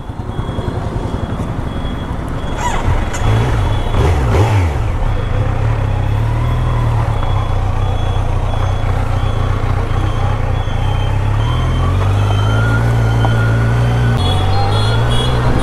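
Kawasaki Z900's 948 cc inline-four engine running under way, its note rising and stepping up a couple of times after about ten seconds as the bike gathers speed.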